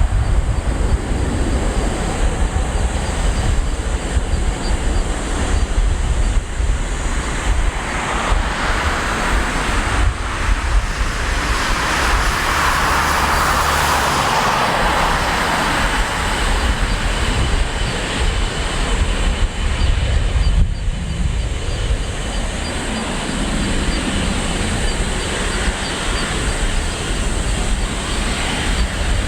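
Boeing 777-200ER's twin jet engines at takeoff power: a broad roar with a heavy low rumble, swelling to its loudest about halfway through as the airliner climbs past.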